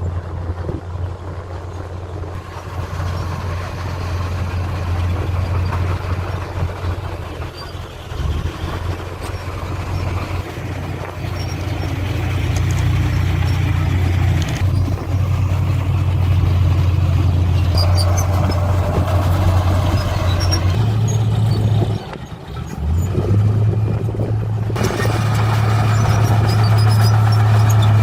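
Diesel engine of heavy earthmoving machinery running, a low steady drone that shifts in pitch and load, dropping away briefly about three-quarters of the way through before coming back louder.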